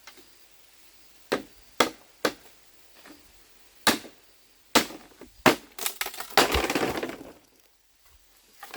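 Sharp knocks at uneven intervals, six in all, then a dense crackling clatter lasting about a second and a half.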